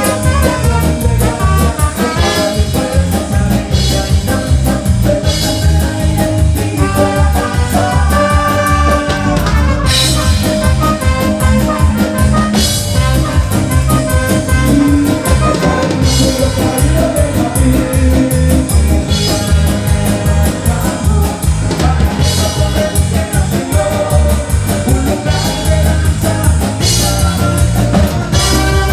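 A live band playing upbeat praise music, with a drum kit keeping a fast, steady beat under bass and melody instruments.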